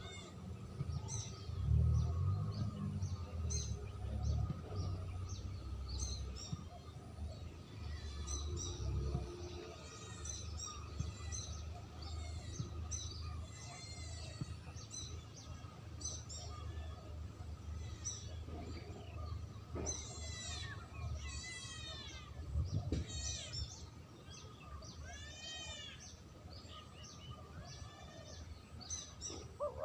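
Small birds chirping and twittering, with many short, high, arching notes and quick trills, over a low background rumble that is heavier in the first few seconds.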